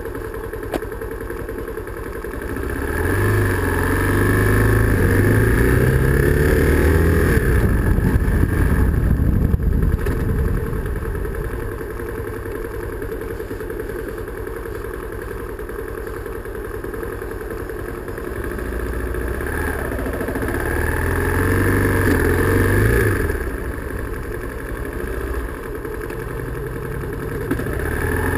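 Bashan Storm 250 motorcycle engine heard from the rider's seat while riding. It speeds up with a climbing, louder note from about two seconds in, eases off about ten seconds in, speeds up again around twenty seconds, drops back, and begins climbing once more near the end.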